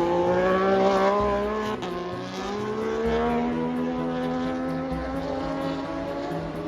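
Racing motorcycle engine accelerating, its pitch climbing, dropping briefly about two seconds in, then climbing again.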